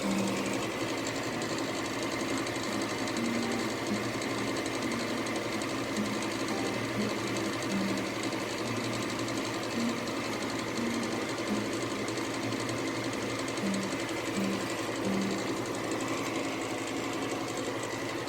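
Gas furnace running after being switched back on: a steady mechanical motor sound with a fast, even chatter.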